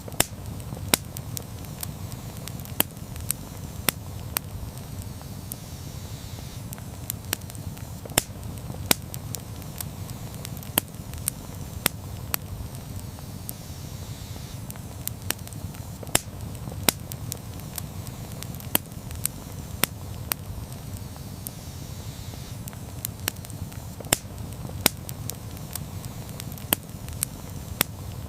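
Campfire burning, with a steady low rumble of the flames and irregular crackles and sharp pops several times a second.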